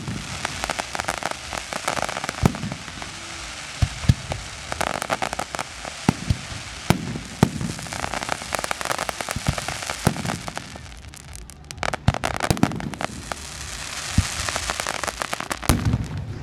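Aerial fireworks going off: a steady run of sharp bangs, several of them loud, with stretches of dense crackling from crackle effects between them.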